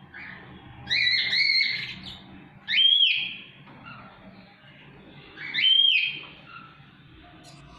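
Parrot giving three clear whistled calls: a two-part call about a second in, then two short rising-and-falling whistles near three and six seconds in.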